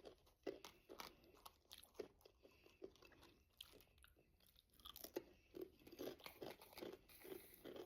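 Faint crunching and chewing of a ketchup-flavoured Pringles chip, an irregular run of short, crisp crunches.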